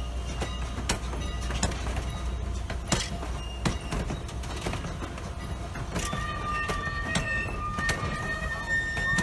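Steam train running on the line: a steady low rumble with repeated sharp clanks and clicks of wheels over the rails. About six seconds in, a steady high two-note tone joins.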